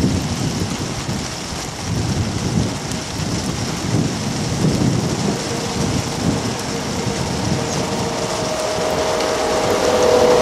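Heavy rain falling steadily, with low rumbling swells. An approaching EP1M electric locomotive adds a steady hum of a couple of tones that grows louder over the last few seconds.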